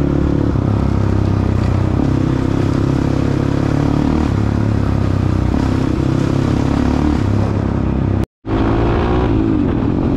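Dirt bike engine running steadily under way, heard from the rider's position. A little after eight seconds the sound cuts out completely for a moment, and then the engine returns with its pitch dipping and climbing as the throttle changes.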